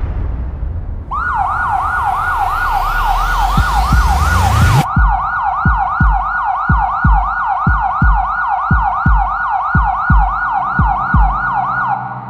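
Siren sound effect: a fast wail sweeping up in pitch about three times a second, with a run of low thumps coming in partway through.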